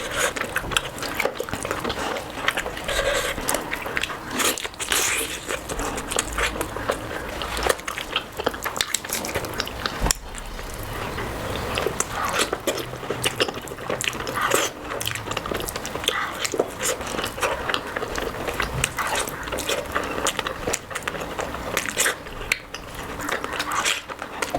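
Close-miked eating sounds from a curry meal: continuous wet chewing, biting and lip-smacking, with many small clicks.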